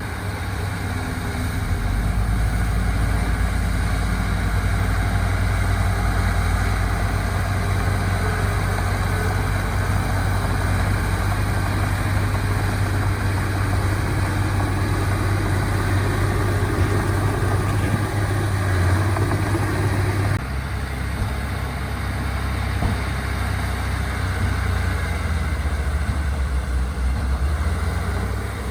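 Diesel engine of earthmoving machinery running steadily at a low, even pitch, with an abrupt change in its sound about 20 seconds in.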